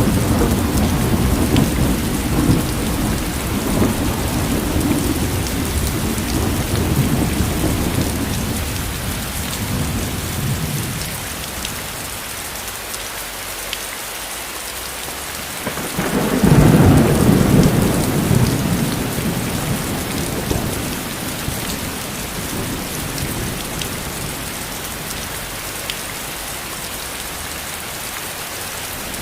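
Steady heavy rain falling, with two rolls of distant thunder: one rumbling at the start and fading away, a second swelling up about halfway through and dying out.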